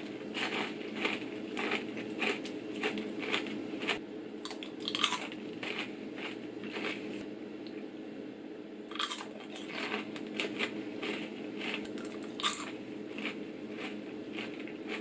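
A person chewing caramel-coated popcorn with peanuts, a run of crisp crunches a few times a second that pauses briefly about halfway and then resumes. A steady low hum is underneath.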